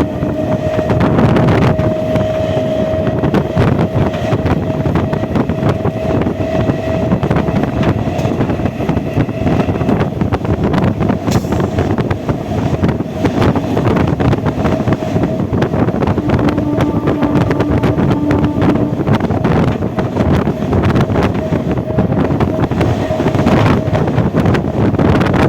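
Indian Railways EMU electric train running, with a dense rattle of wheels on the rails and a steady whine through much of it, and wind buffeting the microphone.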